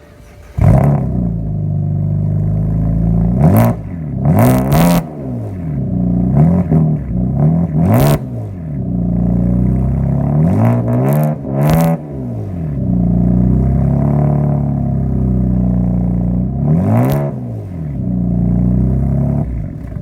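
BMW inline-six with catless downpipes, running through a straight-pipe dual exhaust now fitted with Jones resonators. It idles and is revved about eight times, each rev rising and falling quickly, some in quick pairs.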